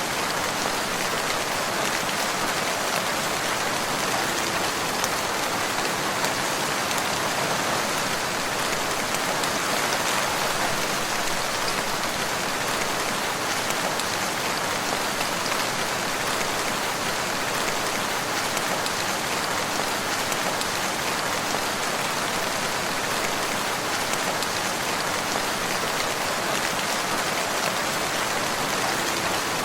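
Steady rain falling, a constant hiss of many drops hitting surfaces, with no change in strength.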